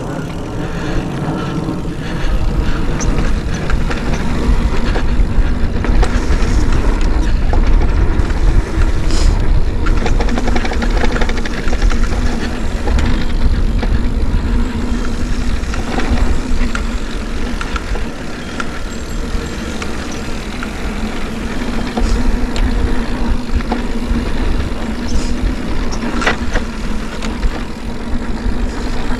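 Mountain bike being ridden on a dirt trail: a steady low rumble with a few sharp clicks and rattles.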